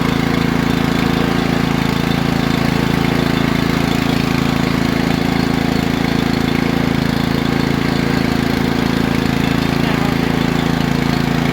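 Riding lawn mower's engine running steadily, an even drone with no change in speed.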